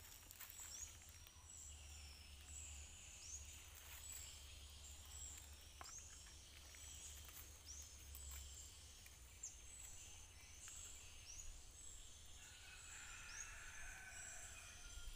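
Faint birdsong: short high chirps repeated over and over, joined near the end by a lower warbling call, over a faint low rumble.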